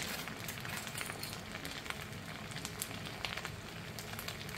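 Potatoes and onions frying in a pan on maximum heat, with their sauce nearly cooked off: a steady sizzle with many small crackles and pops.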